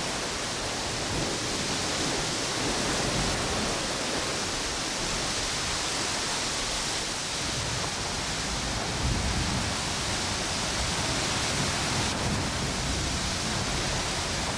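Ocean waves washing on a beach under strong wind, a steady rush of noise with low gusts swelling about nine seconds in.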